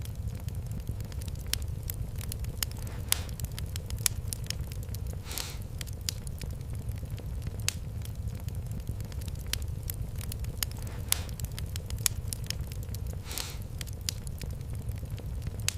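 Fireplace fire crackling steadily: many sharp, irregular pops and snaps over a constant low rumble, with a few softer, drawn-out pops.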